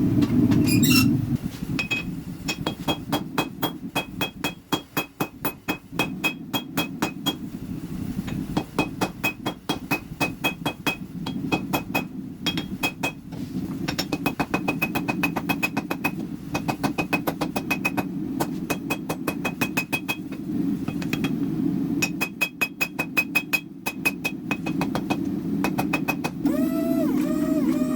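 Hammer blows on a hot Damascus billet on the anvil, in rapid runs of about three strikes a second with short pauses, each blow ringing at the same high pitch, over the steady rush of the forge running. Near the end a motor spins up with a rising whine and then holds steady.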